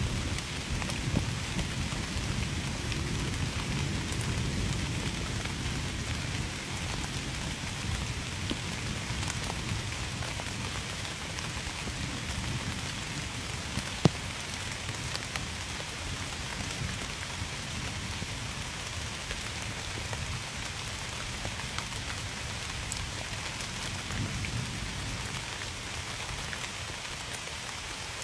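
Steady rain falling, with a low thunder rumble in the first several seconds that eases off. There is one sharp tick about halfway through.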